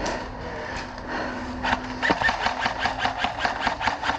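Airsoft gun firing a rapid, even string of shots, about six or seven a second, starting about halfway through. Before it there is a faint steady hum.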